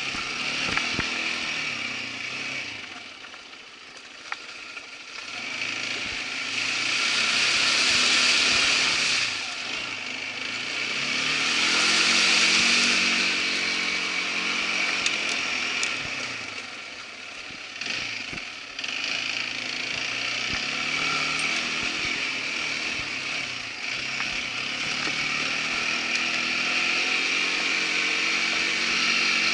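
Irbis ATV 200 quad bike engine running under way, revving up and easing off with the throttle. It drops back twice, a few seconds in and again a little past halfway, and runs steady near the end.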